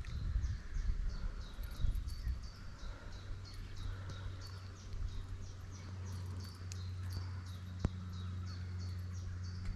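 A small songbird repeating short high notes, about three a second, in a long even series. A low steady hum comes in about three seconds in.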